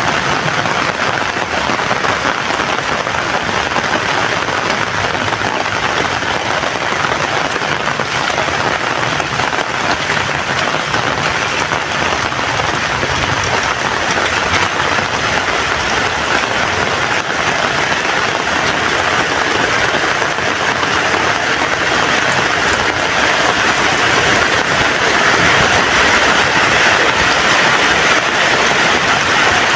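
Heavy rain falling steadily, a dense even hiss that grows a little louder near the end.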